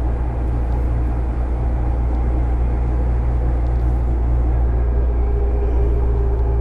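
Running noise heard inside a JR 205-series motor car with externally ventilated MT61 traction motors: a steady low rumble that grows slightly louder, with a steady hum-like tone joining in about five seconds in.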